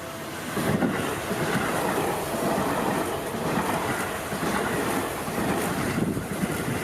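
Electric train passing close by at speed: a loud, even rushing of wheels and air with an irregular low rumble, starting about half a second in.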